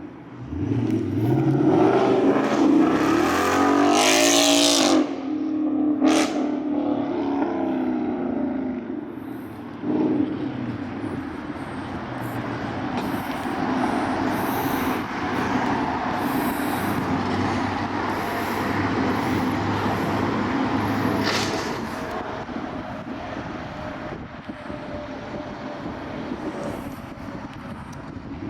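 Ford Mustang GT's 5.0 V8 running through its exhaust. The revs rise over the first few seconds and drop off sharply about five seconds in, then it settles into a steadier run with a rushing noise.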